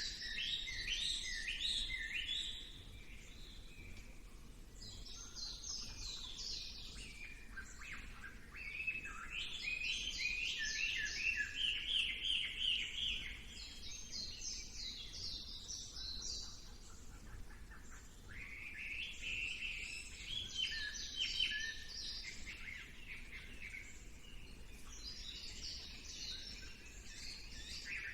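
Songbirds singing in repeated bouts of fast, chattering trills, each burst lasting a few seconds, with short pauses between bouts and overlapping phrases in the middle.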